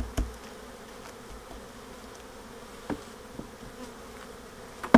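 Honeybees buzzing steadily around an open hive. A few knocks break in: two near the start, one about three seconds in, and a sharp loud one near the end.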